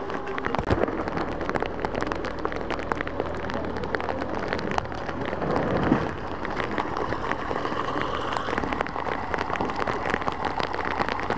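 Heavy rain falling on hard surfaces: a steady wash of noise with many separate drop impacts, over a faint steady low hum.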